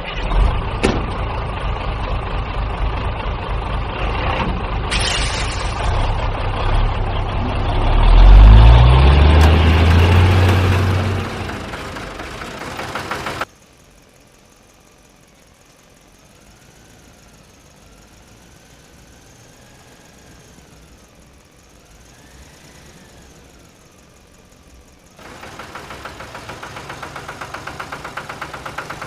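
A vehicle engine running, rising in pitch and loudness about eight seconds in as it revs, then cutting off suddenly. A faint wavering tone follows, then a quick regular pulsing near the end.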